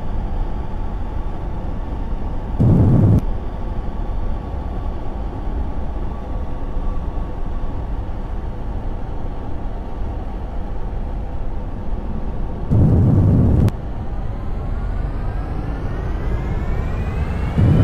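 Jet airliner engines running over a steady rush of wind noise, broken by two short, loud, low bursts, about three seconds in and again around thirteen seconds. Over the last few seconds the engines' whine rises steadily in pitch.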